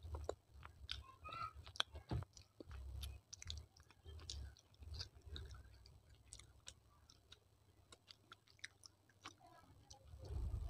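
Close-miked chewing of crunchy baked clay: sharp crackles and grinding between the teeth. The crunches are thickest in the first few seconds, thin out in the middle and pick up again near the end.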